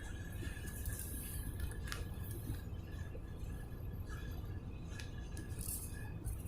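Steady low road rumble inside a moving car's cabin at highway speed, with a faint steady high whine and a few light clicks.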